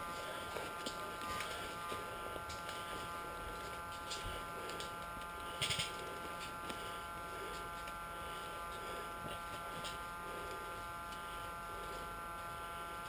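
A steady electrical buzz made of several even tones, with one short sharp click-like burst about six seconds in.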